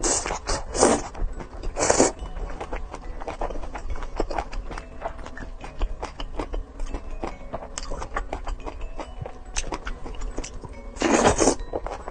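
Close-up eating sounds: chewing and crunching with scrapes and clinks of dishes, as many short clicks, with louder noisy bursts near the start, about two seconds in and about eleven seconds in.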